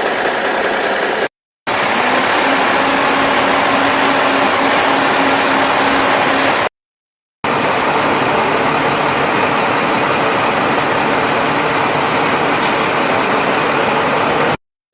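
Heavy diesel engine of an excavator running steadily at working revs, with a steady hum for a few seconds early on. The sound cuts out completely twice for under a second.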